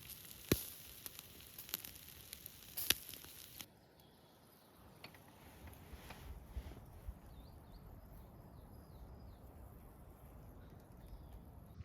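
Crackling and snapping over a high hiss for the first few seconds, which stops abruptly. Then a quiet outdoor ambience with a low rumble and a few faint, short bird chirps.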